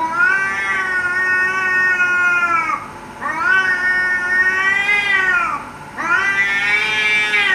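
Domestic cat giving drawn-out threat yowls in a standoff with another cat: three long wails of about two and a half seconds each, the pitch gliding up at the start and falling away at the end.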